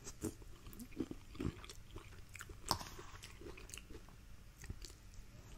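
Faint, close-up chewing of a mouthful of soft bread stuffing, with scattered short, sharp wet mouth clicks.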